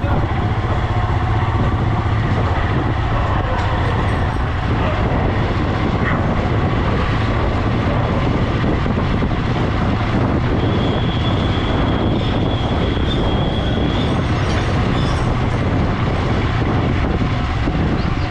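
Motorcycle riding along a road: steady engine rumble mixed with road and wind rush. A thin high tone sounds for a few seconds around the middle.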